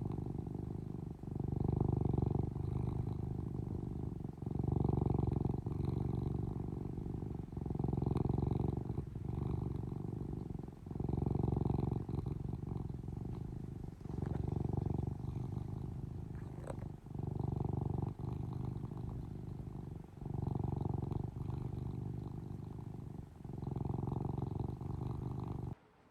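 Domestic cat purring close by: a low, steady rumble that swells and eases with each breath, about every three seconds. A faint click comes about two-thirds of the way through, and the purring cuts off suddenly near the end.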